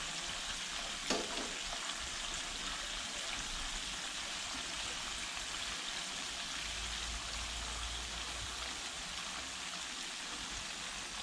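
Breaded fish slabs frying in hot oil in a frying pan: a steady sizzle.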